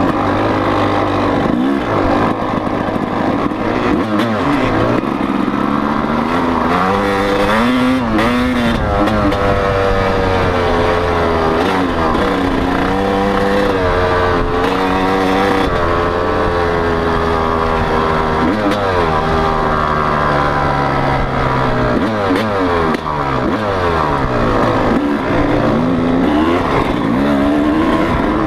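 Motocross bike engine revving up and dropping back again and again as it is ridden, loud throughout.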